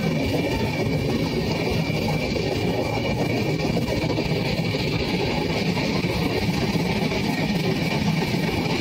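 Steady running noise of a moving passenger train, mixed with background guitar music.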